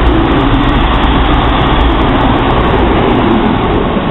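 CrossCountry Voyager diesel multiple unit moving along the platform: its underfloor diesel engines and wheels on the rails make a loud, steady noise that eases slightly near the end.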